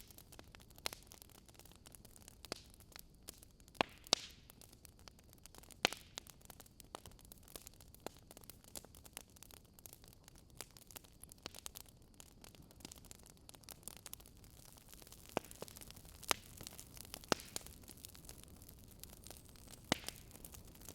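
Fireplace fire crackling faintly: irregular sharp pops and snaps over a low steady hiss, with a few louder snaps scattered through.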